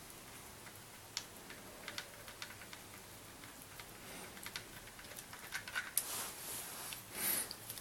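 Faint, scattered metallic clicks and taps of hand tools and parts being handled on the engine's cylinder head during camshaft removal. The clicks come more often in the second half, with a short scraping rustle twice near the end.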